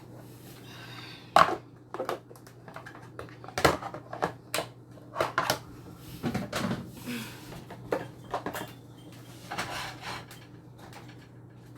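Kitchen clatter: dishes, containers and utensils being handled and set down on a counter, as irregular knocks and clicks. A steady low hum runs beneath.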